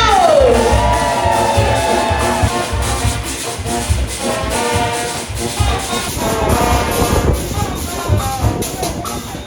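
Brass band music with horns over a steady, driving drum beat. A horn line slides down in pitch right at the start.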